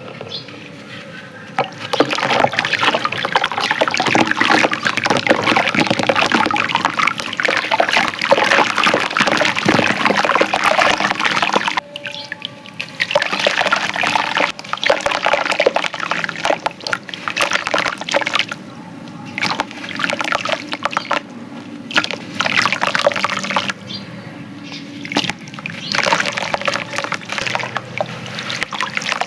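Soft clay chunks crumbling and crackling in water, with wet sloshing and trickling. A long spell of dense crumbling is followed, after about twelve seconds, by a series of shorter bursts.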